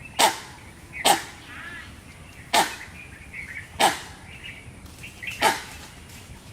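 An animal's short, sharp calls, five of them about a second and a half apart, each sweeping quickly downward in pitch, with faint bird chirps in between.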